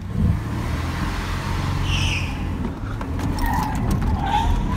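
Car engine starting with a jump in loudness and revving, then running steadily as the car pulls away. There is a short high squeal about two seconds in.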